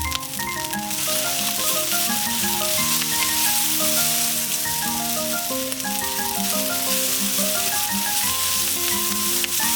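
Steady sizzling hiss of food frying, with instrumental background music playing a melody over it.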